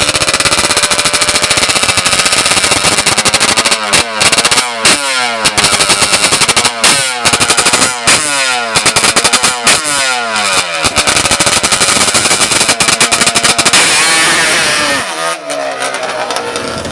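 Racing ATV engine at full throttle on a drag run, its rapid exhaust note climbing in pitch through each gear and dropping back at each upshift, several shifts in quick succession. Near the end the pitch falls as the throttle comes off.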